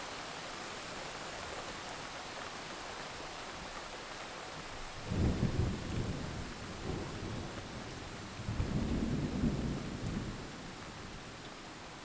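Steady rain hissing, with rolling thunder rumbling about five seconds in, briefly again near seven seconds, and once more from about eight and a half to ten seconds.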